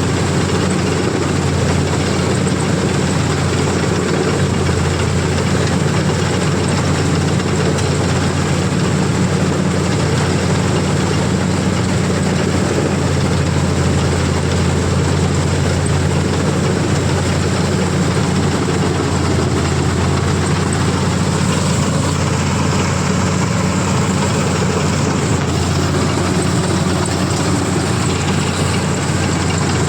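Combine harvester's diesel engine and threshing machinery running steadily at constant speed, a continuous heavy drone with mechanical noise.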